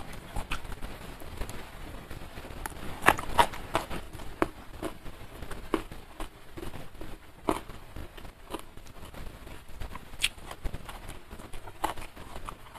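Close-miked eating sounds: a person chewing a mouthful of fried fish and rice, with wet mouth noises and irregular sharp lip smacks and clicks, the loudest about three seconds in.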